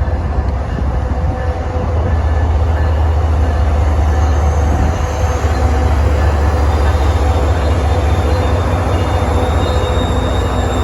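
A train running past, a steady rail rumble with faint thin tones above it, and wind buffeting the microphone as a heavy low rumble.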